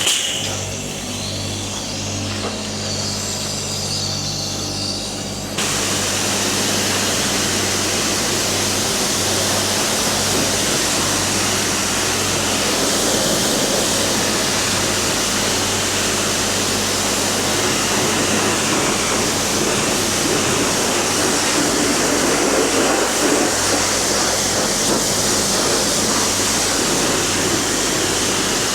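A steady low hum, then about five seconds in a self-serve car wash's high-pressure wand starts spraying water: a loud, steady hiss of spray that carries on.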